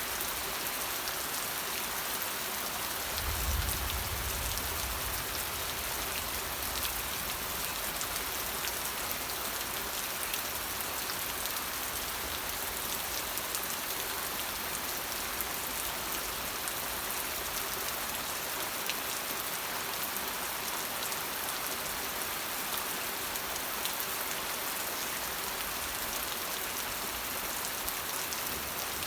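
Steady rain falling, a dense even patter with individual drops ticking through it. A short low rumble comes about three seconds in.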